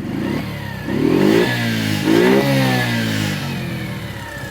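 Mash Fifty's 49.9cc single-cylinder overhead-cam engine running cold on choke just after a kick start, blipped twice: the revs rise sharply about a second in and again about two seconds in, each time falling back toward idle.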